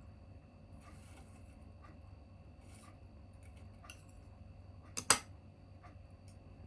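Small tabletop wood fire crackling faintly with scattered soft pops, and one sharp, loud double crack about five seconds in.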